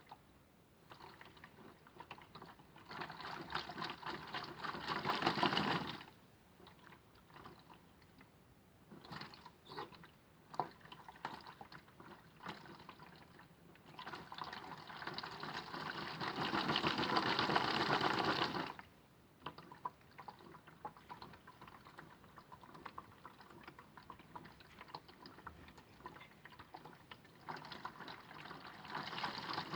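Modified Miele W1 toy washing machine washing: its small motor turns the drum in runs of a few seconds, with water sloshing inside. Between runs there are pauses filled with faint splashes and clicks.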